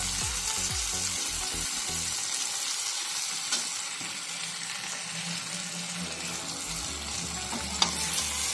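Okra sizzling in hot oil in a steel kadhai while a metal ladle stirs it through, mixing in freshly squeezed lemon juice. There is a steady sizzling hiss, with two sharp clicks of the ladle against the pan, one a few seconds in and one near the end.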